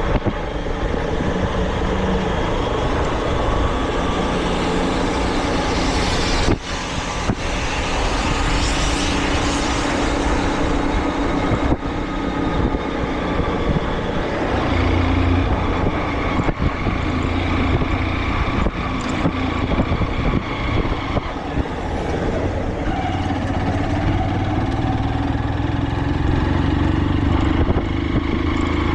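A motor vehicle's engine running steadily with road noise, its pitch shifting slightly now and then.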